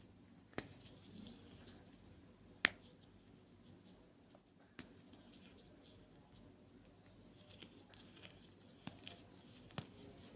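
White gym chalk being crushed, giving a few sharp, separate crunching cracks a second or more apart, the loudest about a quarter of the way in, with faint crackling between them.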